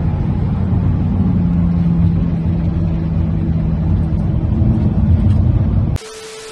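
Loud, steady car engine and exhaust rumble with a constant drone, heard from a moving car. About six seconds in it cuts abruptly to the hiss and steady beep of a TV-static transition.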